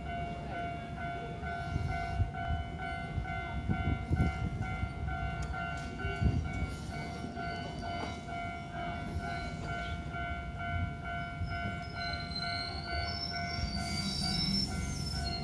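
Keihan electric train rumbling through a Japanese level crossing while the crossing's electronic warning bell rings steadily. Near the end a high whine climbs in steps.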